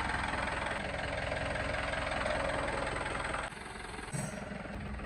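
Mahindra Bolero diesel engine running with a knocking clatter. Its sound drops abruptly about three and a half seconds in, then settles into a steadier low hum.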